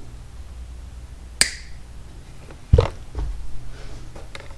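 A sharp click about a second and a half in, then a duller knock about a second later, as the plastic gas cap of a Poulan chainsaw is handled and put back on.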